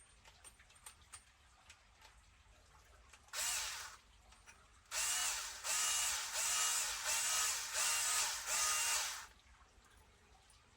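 Cordless electric screwdriver driving the differential case screws home: a short run, then a longer run whose motor pitch swells and dips about twice a second as the trigger is feathered, with light clicks of parts being handled before it.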